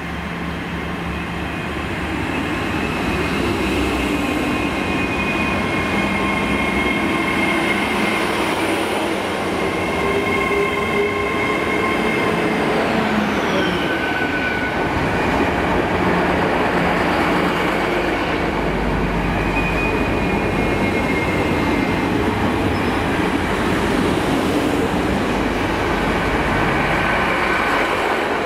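GWR Hitachi Intercity Express Train (Class 800-series) running along the platform, getting louder over the first few seconds and then a steady rumble as the coaches pass. Thin high-pitched squeals come and go, one falling in pitch about halfway through.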